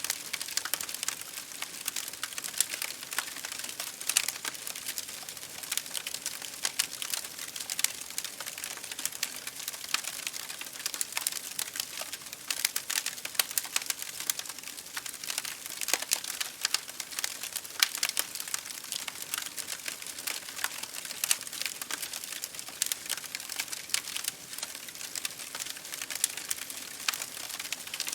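Wood fire crackling in a fireplace, with rain pattering on window glass: a steady, dense run of small sharp crackles and pops over a soft hiss.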